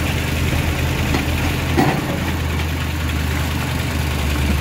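Truck engine idling steadily with a low hum, and a brief higher sound cutting in about two seconds in.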